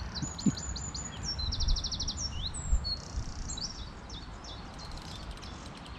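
A songbird singing a fast, varied song of high chirps and trills, densest in the first three seconds and then thinning to scattered notes, over a low rumble of breeze on the microphone.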